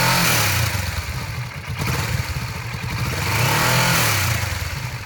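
Kawasaki Vulcan S 650cc liquid-cooled parallel-twin engine idling and being revved twice: a short blip right at the start and another peaking about four seconds in, each falling back to idle.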